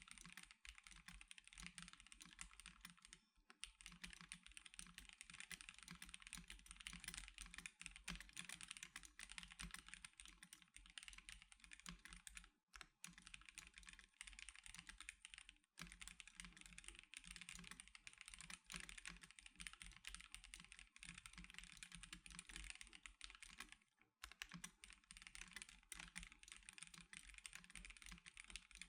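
Continuous fast typing on an Ikki Aurora R2 custom mechanical keyboard with C³Equalz x TKC Banana Split linear switches and Norbauer DSA keycaps: a dense run of keystroke clacks. It stops for a moment about 13, 16 and 24 seconds in.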